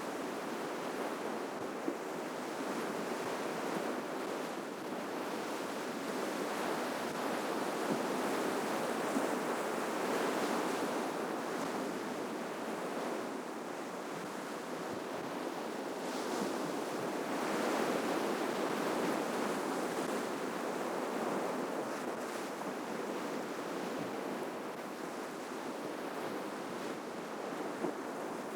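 Sea waves washing and breaking on the shore in a continuous rushing wash that swells louder twice as bigger waves break.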